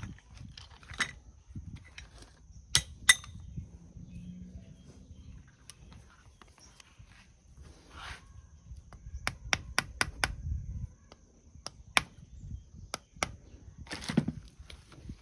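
Scattered clicks and knocks of metal tools and engine parts being handled, with a quick run of sharp clicks about nine seconds in, over a faint steady high whine.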